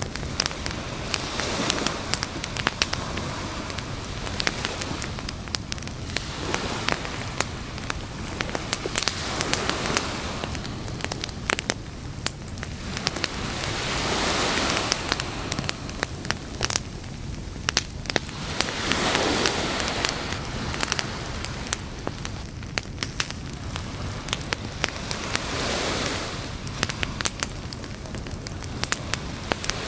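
Campfire crackling with frequent sharp pops, over sea waves that swell and fade every few seconds.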